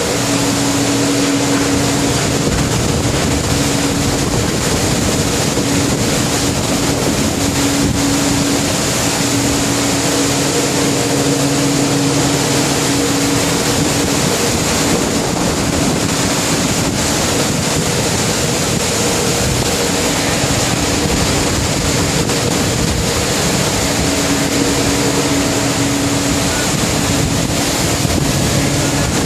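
Steady, loud rush of wind and heavy sea aboard a ship in a storm, under a low engine hum that fades out in the middle and comes back near the end.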